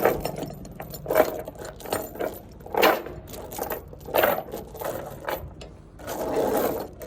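Steel tie-down chain clinking and rattling as the loose excess chain is gathered up, in several separate clanks a second or so apart.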